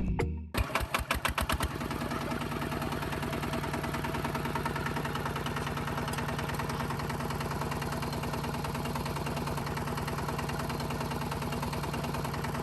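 Small motor of a DIY miniature farm machine starting with a run of uneven pulses in the first second or two, then running steadily with an even hum.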